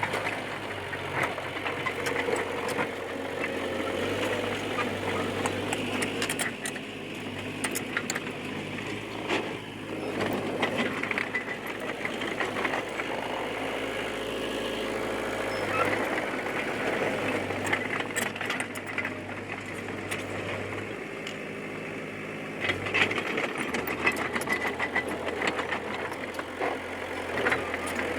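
D20P crawler bulldozer's diesel engine running as it works, its note stepping up and down with the load, with scattered short clanks over it.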